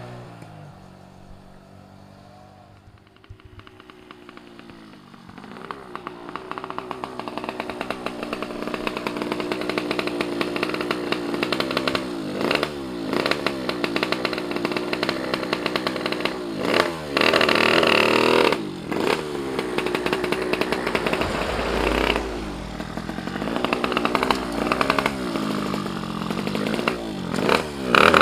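Tuned 116cc Yamaha F1ZR two-stroke motorcycle engine. It starts faint, grows steadily louder, then is revved in repeated sharp throttle blips through the second half.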